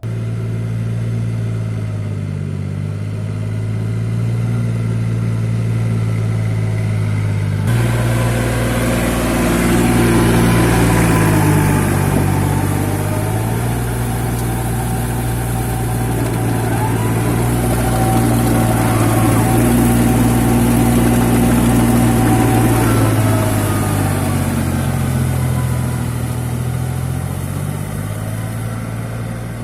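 New Holland 4710 tractor engine running steadily, its pitch dipping and recovering a few times as if under changing load. About eight seconds in a broad, louder noise comes in suddenly on top of it and stays.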